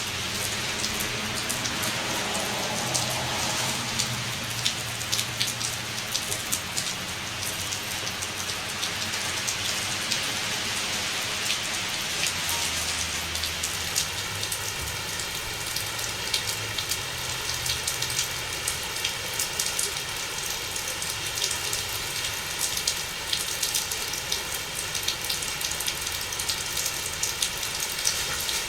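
Heavy tropical downpour from a hurricane, rain falling hard and pattering on surfaces, with many sharp drop impacts throughout.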